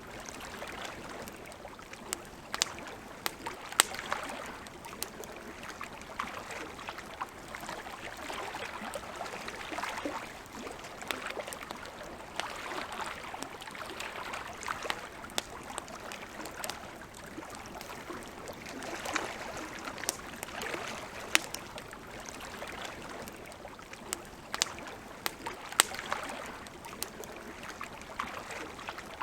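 Campfire crackling, with scattered sharp pops, over a steady wash of lake water lapping in slow, gentle swells.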